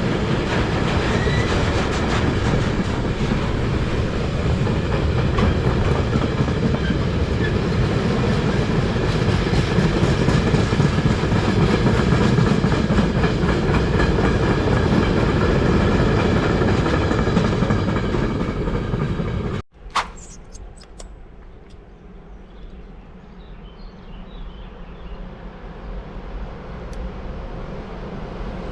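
A train running past on the tracks: a loud, steady rumble of wheels on rails that cuts off abruptly about two-thirds of the way through. After that comes a much quieter background with a few faint high chirps, and a low rumble that slowly grows louder toward the end.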